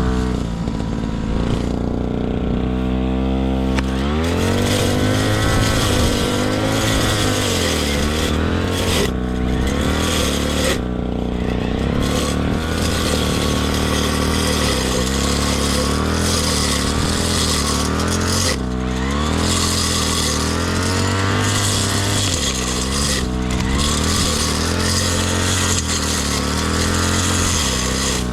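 Grass-cutting machine's engine running steadily, its speed rising and falling again and again as it works.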